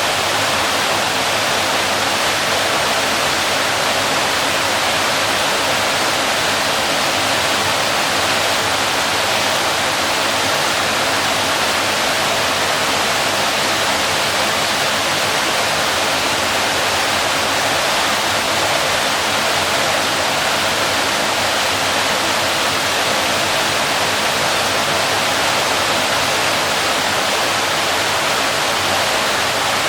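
Waterfall: water pouring and splashing steadily, a dense, even rush of noise with no change.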